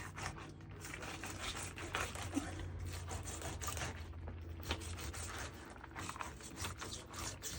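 Knife cutting and scraping through a salmon's bones during filleting: a run of irregular small clicks and rasping scrapes.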